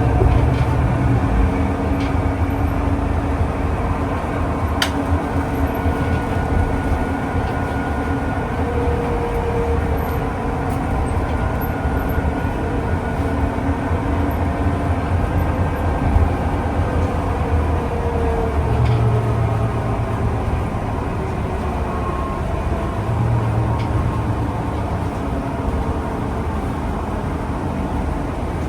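Steady running noise of a public transport vehicle under way: a continuous low rumble with faint gliding tones and a few light clicks.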